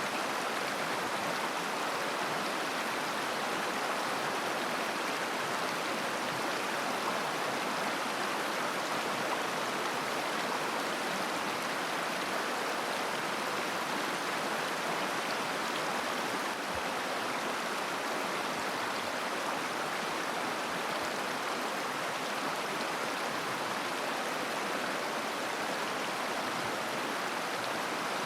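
A mountain river's shallow water running over stones: a steady, even babbling rush that doesn't change.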